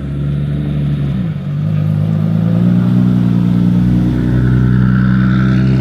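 Car engine running under load. Its pitch dips about a second in, as with a gear change, then climbs and holds steady as it gets louder.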